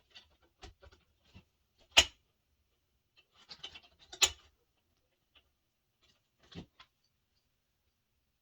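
Scattered clicks and knocks with quiet gaps between them, two sharper knocks standing out about two seconds apart.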